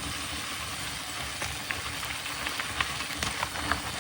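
Mountain bike rolling downhill: a steady rush of wind and tyre noise with scattered clicks and rattles, which come more often toward the end.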